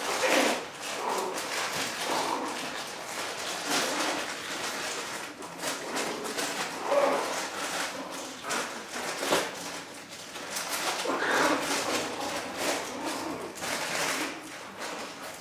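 Young chihuahua puppies squeaking and whimpering in short, scattered calls, over steady small scuffling and rustling noises.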